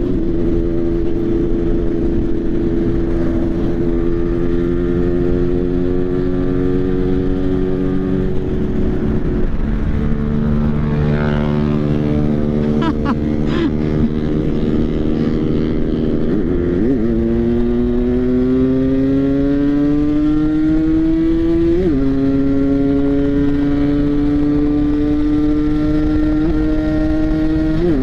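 Motorcycle engine running hard at speed. Its pitch holds, then climbs steadily through the second half, with a gear change about two-thirds of the way in.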